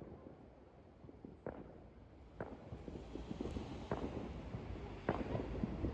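Distant fireworks going off: a handful of separate bangs a second or so apart, with scattered smaller crackles between them, and a low rumble that swells from about halfway through.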